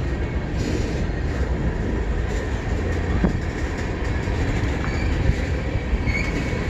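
CN freight train rolling past, a steady rumble of wheels and cars on the rails.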